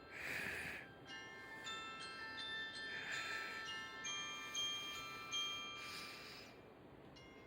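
Soft background music of bell-like mallet tones, glockenspiel or music-box style, with overlapping held notes and a soft hissy swell about every three seconds.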